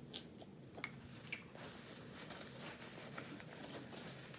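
Faint eating sounds from a seafood boil: three small sharp clicks in the first second and a half, then quiet wet handling and chewing.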